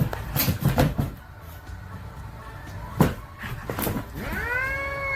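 A few knocks and thumps, like a cupboard door, with a sharp knock about three seconds in. Near the end a domestic cat starts a long meow that rises and then holds.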